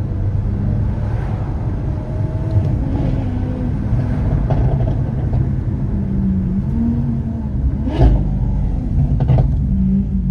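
Lamborghini Aventador SV Roadster's 6.5-litre V12 running under way, its note rising and falling. Two sharp cracks come about eight seconds in and again about a second later.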